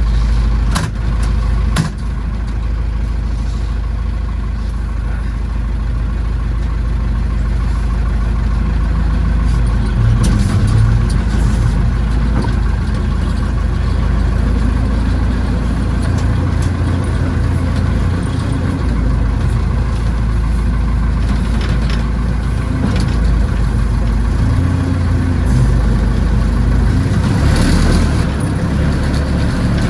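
Tractor backhoe engine running steadily and working under varying load, with a few sharp knocks or clanks along the way.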